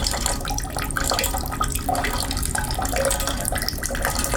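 A thin stream of running water pouring and splashing steadily.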